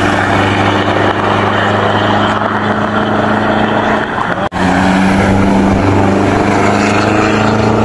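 Loud vehicle engine running at a steady speed, its pitch holding level, cutting out for an instant about four and a half seconds in.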